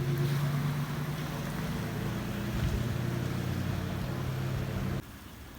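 A motor vehicle's engine running at a steady, low pitch over a hiss of rain and water, cutting off suddenly about five seconds in.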